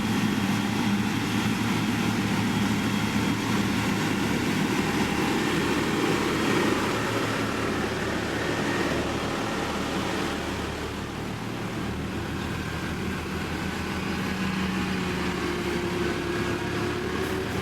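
Heavy construction machine's diesel engine running steadily with an even drone, easing off a little about seven seconds in.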